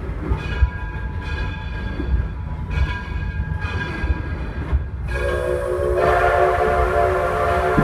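Steam locomotive whistle blowing a steady chord that starts about five seconds in, over the low rumble of the moving train. Before it, the rumble carries faint hissing pulses about once a second.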